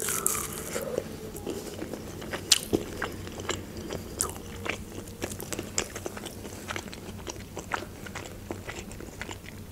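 A person biting into a fried chicken nugget and then chewing it, the crisp breading giving many small sharp crunches throughout.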